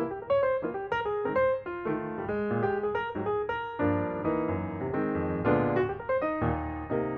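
Background piano music: a run of quick notes, then held chords about halfway through.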